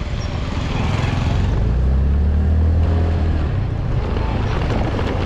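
A vehicle engine running steadily while driving, with wind noise on the microphone; the low engine drone swells for a second or two in the middle.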